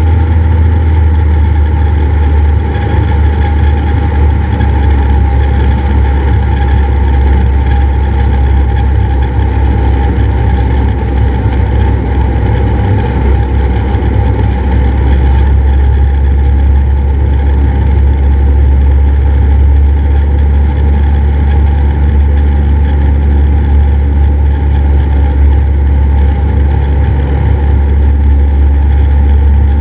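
Cessna 172's piston engine and propeller running with a steady low drone.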